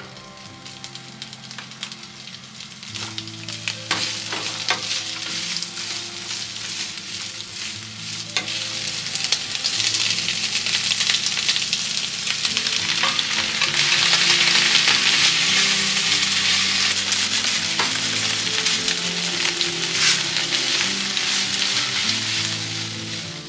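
Food sizzling in a frying pan while it is stirred, with scattered clicks of the utensil against the pan. The sizzle swells to its loudest about two thirds of the way through, over soft background music.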